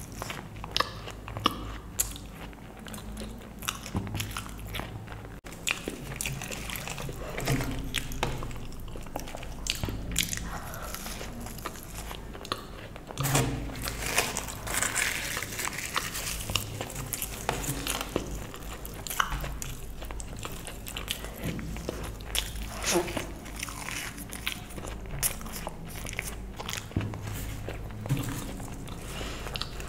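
Close-miked eating sounds: a person biting and chewing mouthfuls of luchi (puffed fried bread) and spicy potato curry, with irregular sharp clicks throughout.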